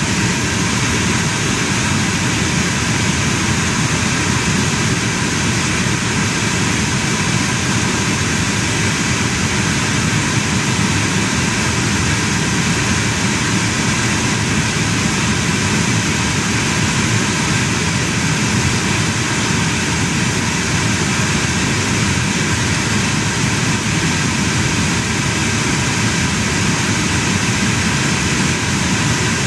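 Lincoln's engine running steadily at idle with a loud, even rushing noise and no change throughout. The owner reports an intermittent misfire, which the mechanic suspects is a failing ignition coil.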